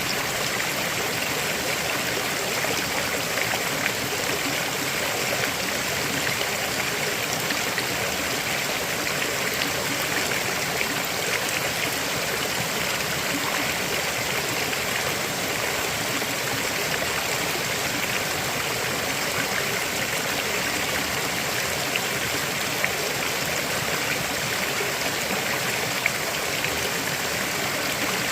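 River water flowing steadily over rocks, a continuous rushing with splashing and trickling.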